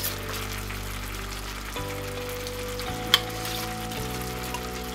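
Chicken, olives, tomato and peas sizzling steadily in a saucepan as cream-style corn is tipped in from a can. There is one sharp knock about three seconds in.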